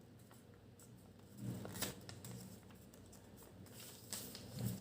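Origami paper rustling and crinkling as it is handled and folded, in two short bursts about a second and a half in and near the end.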